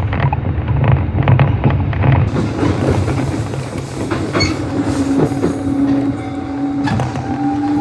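Nishitetsu 600 series electric train running, heard from inside, with wheels clattering over rail joints. From about five seconds in, a motor whine rises slowly in pitch as the train picks up speed.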